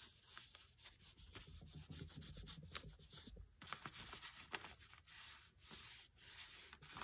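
Fingers rubbing acrylic paint across a paper journal page: faint, uneven, repeated dry rubbing strokes.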